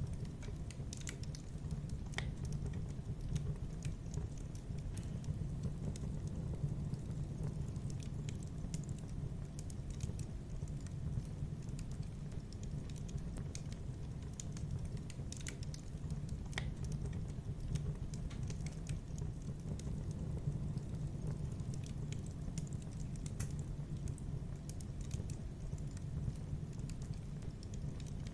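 Fireplace fire crackling: scattered sharp pops and snaps over a steady low rumble of the burning fire.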